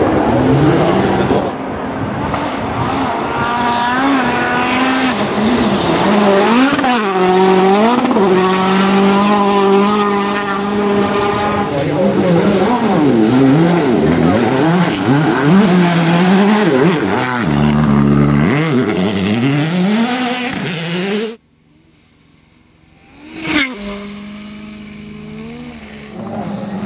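A World Rally Car's turbocharged engine run hard through the gears, its pitch climbing and dropping back again and again with each shift and lift. About 21 seconds in the sound cuts away abruptly to a quieter scene, with one sharp crack and then a steady lower engine tone.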